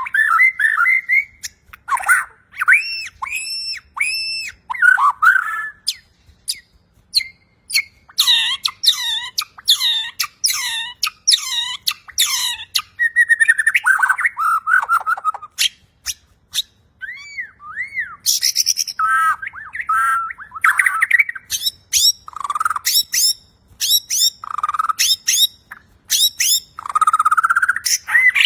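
Bornean white-rumped shama (murai Borneo) singing continuously in varied phrases: clear whistles, rapid trills and sharp clicking notes, with short pauses between phrases.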